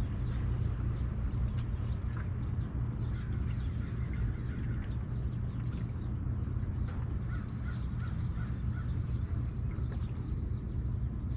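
Birds calling over a steady low rumble. A run of about six short, evenly spaced calls comes about seven seconds in.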